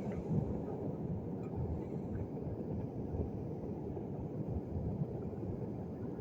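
Steady low rumbling of wind and surf at the shore, with no distinct events.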